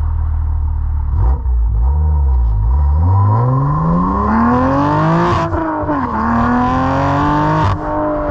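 BMW M2 Competition's twin-turbo straight-six through an equal-length midpipe and axle-back exhaust, accelerating hard: after a low rumble the engine note climbs from about three seconds in, with two quick upshifts about five and a half and seven and a half seconds in, each marked by a short crack.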